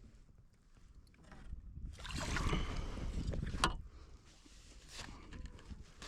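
Water splashing and sloshing against a kayak hull, swelling for about two seconds in the middle, with a sharp click near the end of the swell.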